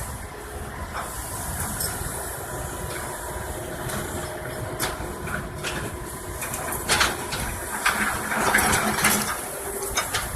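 Heavy vehicle engine running steadily, with several short knocks and clanks in the second half.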